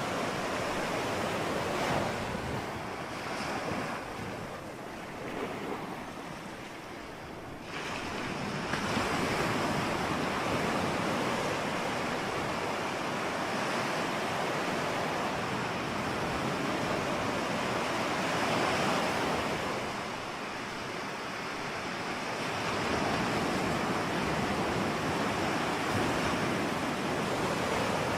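Ocean surf: waves breaking and washing in as a steady rushing that rises and falls in slow surges. After a quieter lull, a louder wave surges in about a third of the way through.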